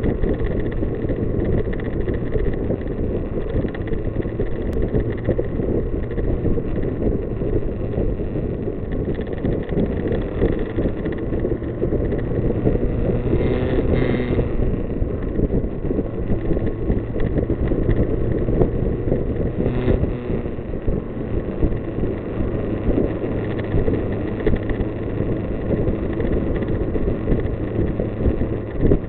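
Kawasaki Z900's inline-four engine running steadily at road speed, with wind rushing over the microphone.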